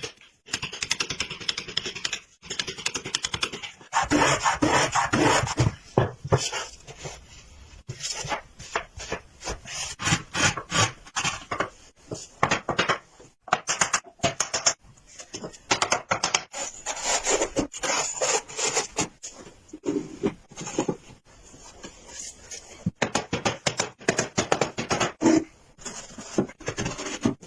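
Hand tools working wood: repeated rasping, rubbing and sawing strokes, changing abruptly many times.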